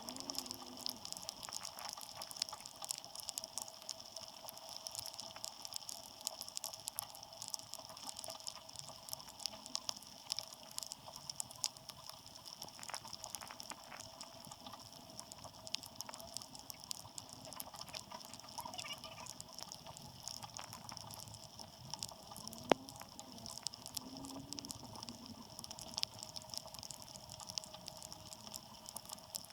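Light rain pattering and dripping: a dense, irregular scatter of small drop ticks over a faint steady hum.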